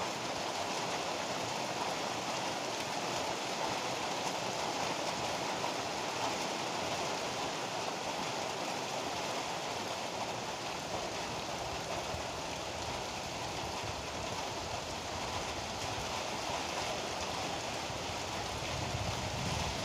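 Steady heavy rain. Near the end a low rumble of thunder begins to build.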